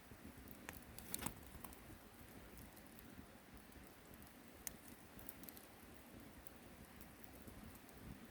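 Wood campfire crackling faintly, with sparse sharp pops over a low hiss; the loudest pops come about a second in and a little past the middle.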